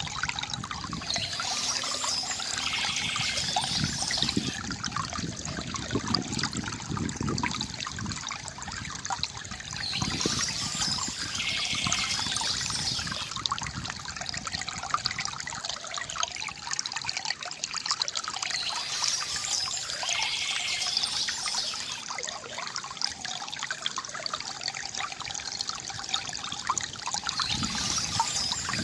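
Water trickling and splashing steadily from a bamboo fountain spout, with a high bird call coming back about every nine seconds.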